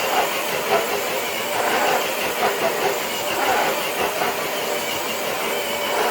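RC truck's motor and drivetrain running under load as it drags a weighted dead sled across concrete, the sled scraping steadily along the ground.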